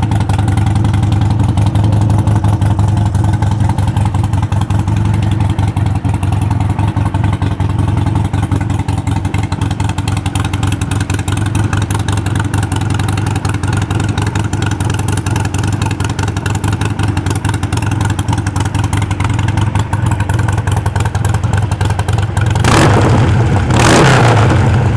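2009 Harley-Davidson Sportster 1200 Custom's air-cooled V-twin running at idle with a loud, steady thump through an exhaust that has been cut short. Near the end the throttle is blipped twice, in quick revs.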